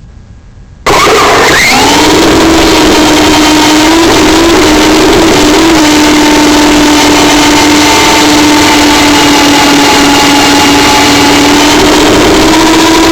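RC model helicopter's motor and rotor, starting abruptly about a second in and rising briefly in pitch, then holding a steady whine over a loud rushing noise.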